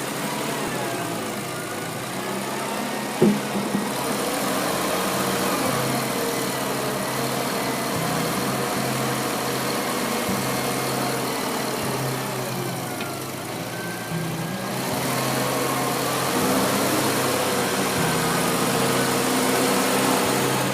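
Yanmar YB 451 mini excavator running steadily, with some tones wavering up and down in pitch as it works. A single sharp knock about three seconds in.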